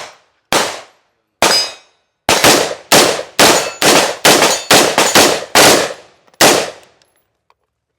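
Gunshots: two single shots, then a fast, irregular string of about ten more fired in rapid succession, each a sharp report with a short ringing tail.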